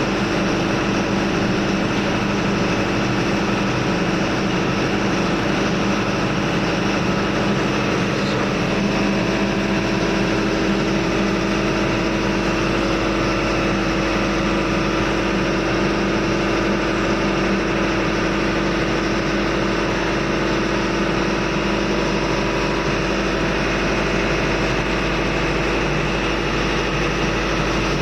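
Steady, loud drone of diesel machinery running in a ship's engine room, with an unchanging low hum and no pauses.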